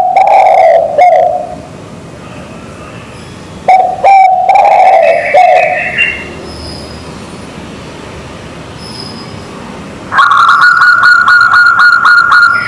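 Zebra dove and spotted dove calling back and forth: a cooing call at the start and another about four seconds in, then a higher, rapidly pulsing call over the last couple of seconds.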